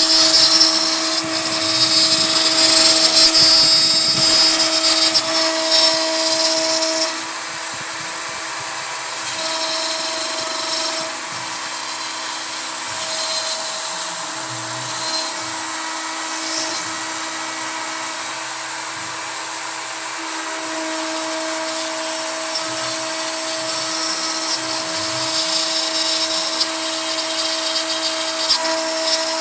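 A CNC router with a Kress router spindle cutting pine with a 3mm end mill: a steady high spindle whine over rough cutting noise, louder for the first seven seconds or so, with the drive motors' tones starting and stopping as the machine moves.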